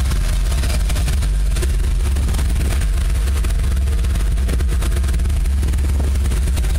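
Ford 400 V8 engine of a late-1970s Ford pickup running steadily, with a strong, even low rumble.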